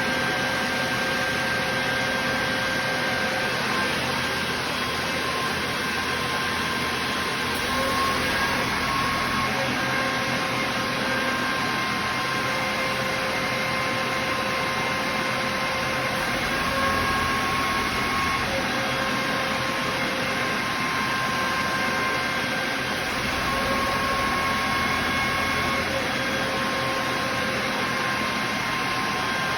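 ZIF-55 air compressor driven by an electric motor, running steadily: a constant mechanical drone with several steady whining tones that swell and fade.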